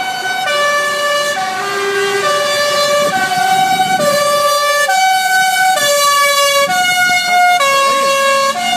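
A truck's multi-note musical horn playing a tune: loud held notes, each about half a second to a second long, stepping up and down in pitch one after another.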